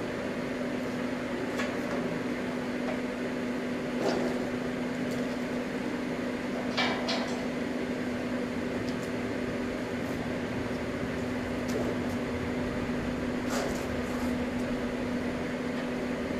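Steady electrical machine hum in a workshop, with a few light clicks and knocks: twice about a third of the way in, once near the end.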